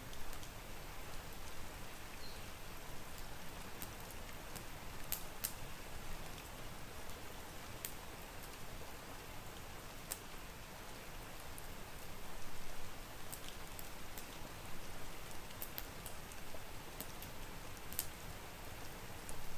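Steady rain hiss mixed with a crackling wood fire, its sharp pops scattered irregularly through the sound.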